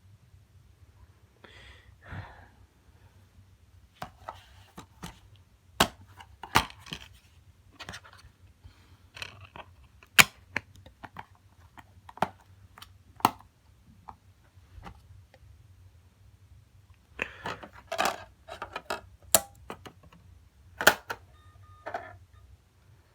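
Scattered, irregular sharp clicks and knocks, some in short clusters, over a faint steady low hum.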